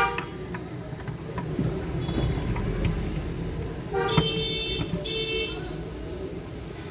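A vehicle horn honks twice in short succession, about four seconds in, over a steady low traffic rumble.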